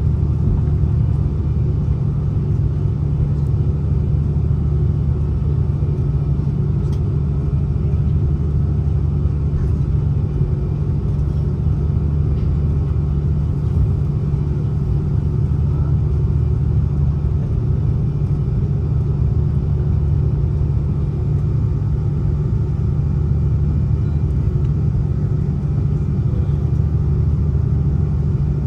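Steady, loud low rumble of engine and airflow noise heard inside the cabin of an Airbus A330-300 airliner.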